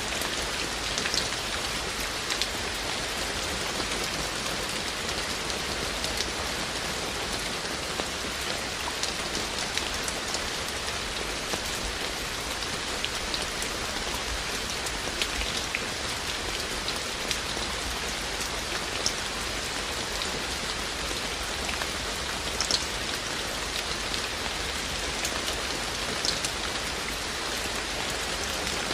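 Steady rain falling on the ground and hard surfaces, an even hiss with scattered sharp individual drop ticks.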